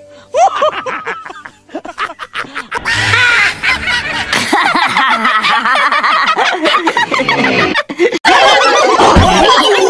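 Several cartoon character voices laughing together, swelling about three seconds in and louder again near the end.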